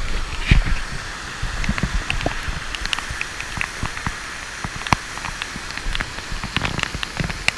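Waterfall water pouring and splashing close by, with many sharp splashes of falling drops.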